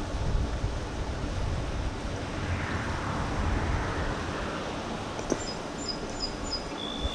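Outdoor ambience dominated by wind rumbling on the GoPro's microphone, with a swell of hiss midway, a single click about five seconds in, and a few short high chirps near the end.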